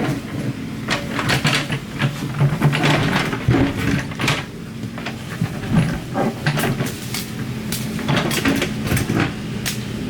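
Excavator working: its engine runs with a steady hum while irregular knocks, clanks and scrapes come from the machine digging into earth and rock.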